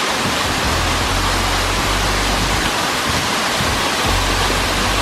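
Waterfall rushing: a loud, steady hiss of falling water, with a low rumble that comes and goes underneath.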